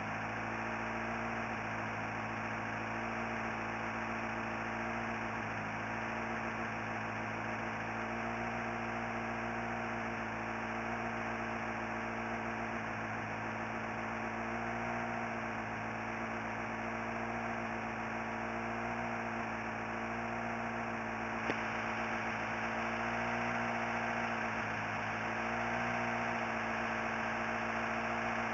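Vauxhall/Opel Corsa X14SZ 1.4-litre four-cylinder petrol engine idling, its note rising and falling slightly every few seconds. A single click comes about 21 seconds in.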